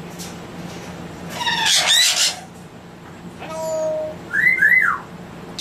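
Parrots calling: a harsh squawk about a second and a half in, then a short lower call and two quick rising-and-falling whistles near the end.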